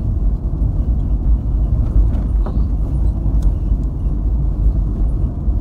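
Steady low rumble of a car heard from inside the cabin while driving on a rough road.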